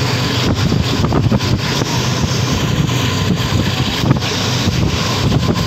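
Train running at speed, heard from an open carriage window: a steady rumble of wheels on the rails with scattered short knocks, and wind buffeting the microphone.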